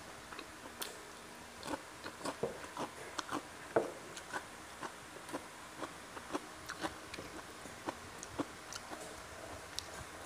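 A person chewing fried catfish, eaten with the fingers, picked up close by a clip-on microphone: irregular small crunches and mouth clicks, about two a second, the loudest about four seconds in.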